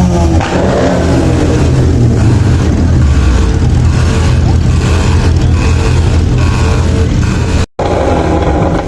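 Loud exhaust of a high-performance car or superbike engine running and revving hard. The sound cuts out for an instant near the end.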